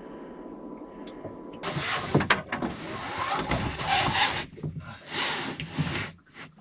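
Scraping and rustling in uneven stretches with a few sharp knocks, starting about a second and a half in: the sound of gear being handled while a solar panel is set up and connected.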